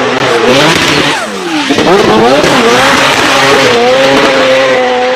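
Race car engine at high revs. About a second in it drops sharply in pitch as the revs fall, then climbs back and holds a high, steady note.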